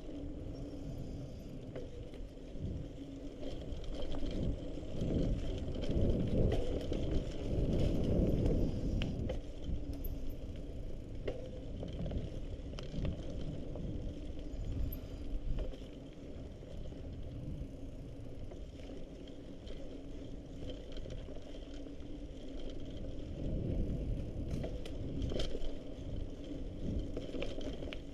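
Mountain bike being ridden along a dirt trail: a steady low rumble of tyres and frame rattle with scattered small clicks, louder for a few seconds twice.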